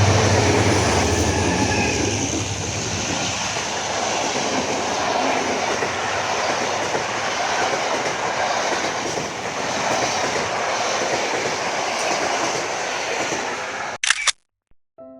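Passenger train running along the track: a steady rumble and rush of wheels on rails. The sound cuts off abruptly near the end, and a few notes of soft piano music begin.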